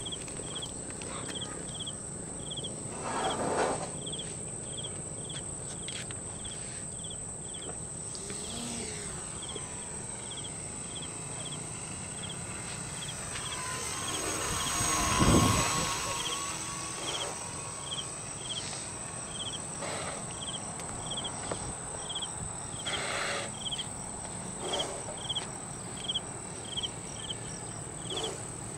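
RC Cessna 182 model plane flying past, its motor swelling to a peak about halfway through and then fading. Insects chirp in a steady rhythm, about one and a half chirps a second, over a constant high buzz.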